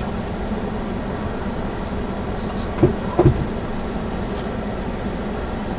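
Steady low hum of a small car's cabin, heard from the dashcam, with two short knocks about three seconds in.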